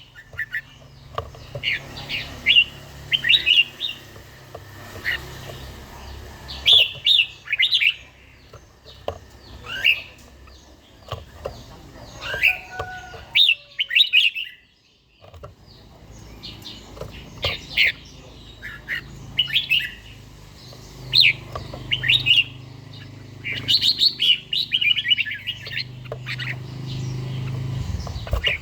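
Red-whiskered bulbul singing in short, bright, warbling phrases repeated every second or so, with a brief break about halfway through.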